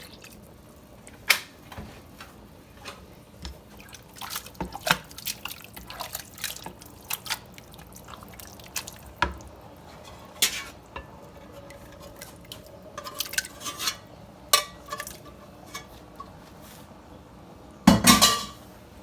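Spoon or utensil clinking and knocking against a pot, with wet liquid sounds, as milk is added to a chicken and tomato sauce. Scattered light knocks, with a louder cluster of clatter near the end.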